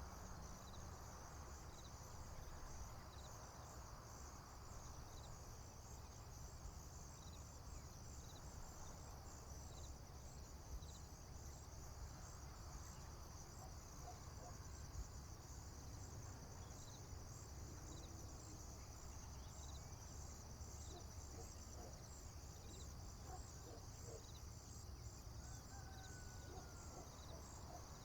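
Crickets chirping steadily in a high, shrill band, with a separate short chirp repeating about once a second. A few faint bird calls come in during the second half, over a low rumble.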